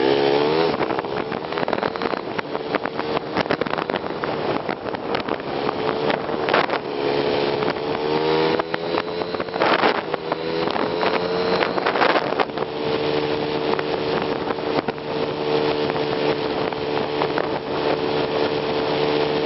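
Kawasaki Estrella's single-cylinder four-stroke engine under way, sped up to three times normal speed so it buzzes like a two-stroke. The pitch dips and picks up in the first second, climbs steadily from about a third of the way in, then holds level, with wind buffeting on the microphone.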